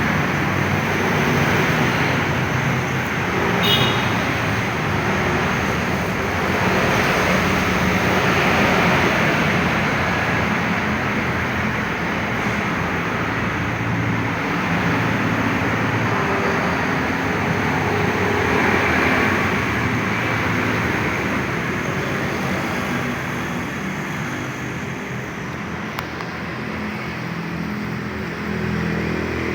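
Kawasaki KX two-stroke trail bike engine running continuously, its note shifting up and down now and then.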